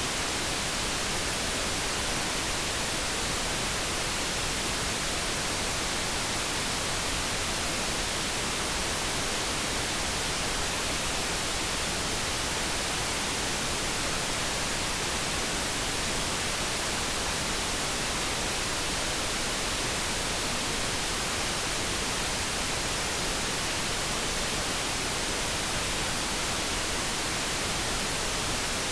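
Steady generated background noise, an even hiss with no tones, pulses or changes.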